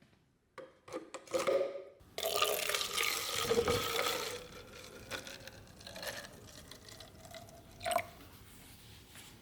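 Liquid being handled: a few light clicks, then a spell of running or splashing liquid about two seconds in that fades away over the next couple of seconds, and one sharp click near the end.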